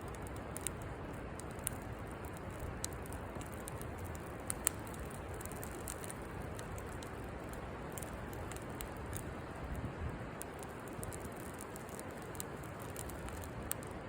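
Campfire burning in a fire pit, crackling with irregular sharp pops over a steady background hiss; the loudest pop comes a little under five seconds in.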